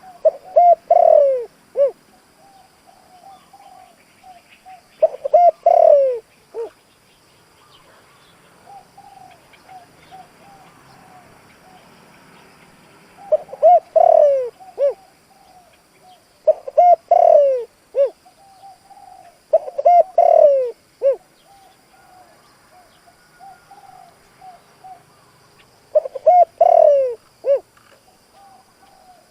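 Spotted dove, a caged decoy bird, singing its cooing song: about six loud phrases of a few falling coos, spaced several seconds apart, with softer coos in between.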